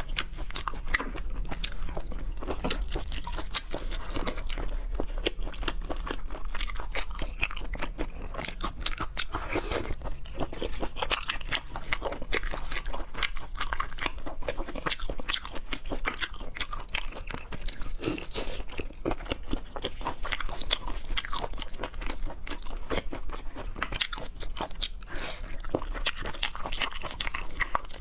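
Continuous chewing and crunching of seafood, with dense, irregular crackly bites.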